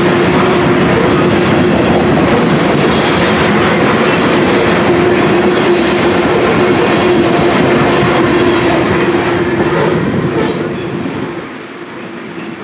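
Freight train of covered hopper cars rolling past, its wheels clattering over the rails. The clatter drops away about ten to eleven seconds in as the end of the train goes by.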